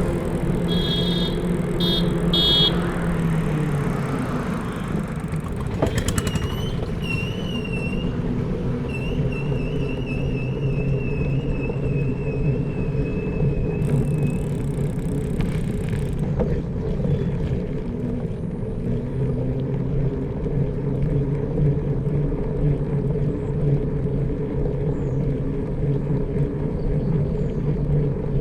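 A motor vehicle's engine runs steadily at low pitch throughout. Over it come a quick burst of high chirps in the first few seconds and a long, high warbling call from about six to fourteen seconds in.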